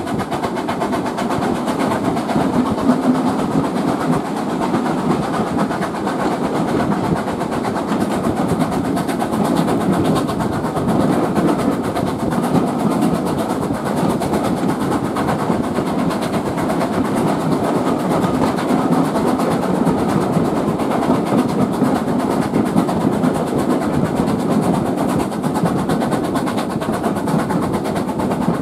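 Steam-hauled heritage train running along the line: a steady rolling noise of wheels on rail that holds an even level throughout.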